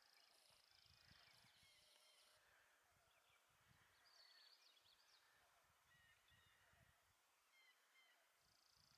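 Near silence, with faint bird chirps scattered through it and a faint high buzzing trill in the first second or so.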